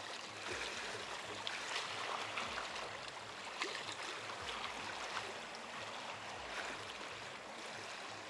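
Small sea waves washing on the beach: a steady rushing with faint crackles scattered through it.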